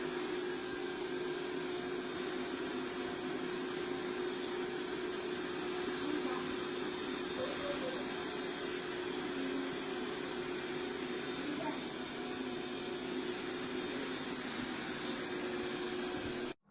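iRobot Roomba Plus 405 Combo running with a steady whirring hum and a constant mid-pitched tone, cutting off suddenly near the end.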